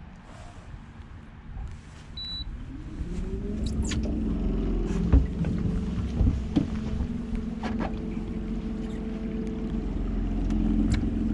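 Electric trolling motor spinning up about two seconds in and then running steadily at full power against a strong current, a steady hum with a low rumble, broken by a few sharp knocks.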